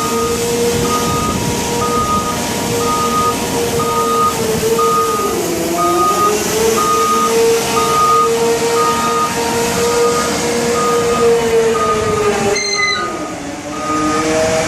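CAT 745C articulated water truck's C18 diesel engine running steadily while its reversing alarm beeps about twice a second. The engine pitch sags briefly about five seconds in and again near the end, when the beeping stops.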